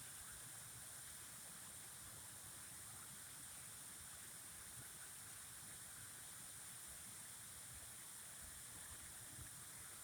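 Faint, steady running water, an even hiss with no changes.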